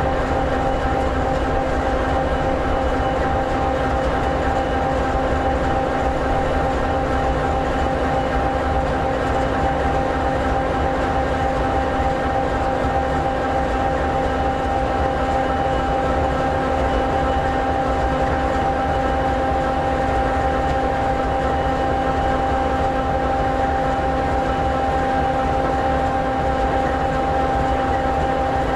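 An SD60E locomotive's EMD 16-710G3B, a sixteen-cylinder two-stroke diesel, idling steadily, with a constant whine over the low engine sound.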